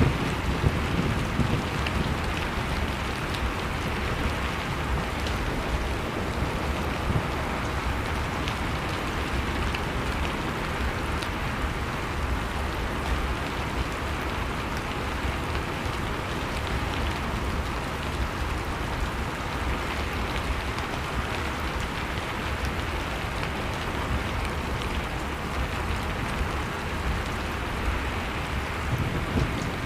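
Wood fire crackling with scattered small pops over the steady noise of blizzard wind.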